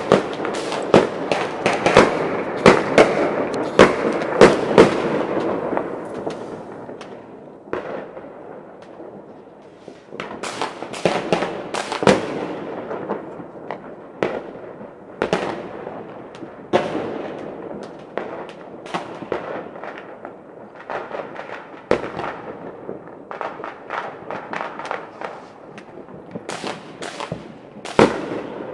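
Many fireworks and firecrackers going off at once, a dense run of sharp bangs over continuous crackling. The barrage is thickest in the first few seconds, thins out after about six seconds, and picks up again with scattered loud bangs later, the loudest near the end.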